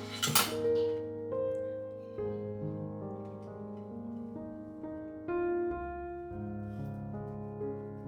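Slow, soft solo piano background music with sustained notes. A brief clatter sounds just after the start.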